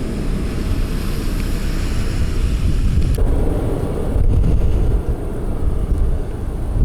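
Wind buffeting the microphone outdoors as a loud, steady low rumble. The higher hiss cuts off suddenly about three seconds in.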